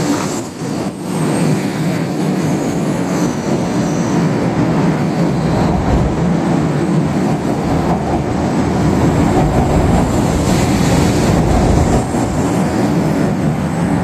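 A 500 Series Hello Kitty Shinkansen train running, making a steady rumble and rush of noise whose deep rumble grows heavier midway through.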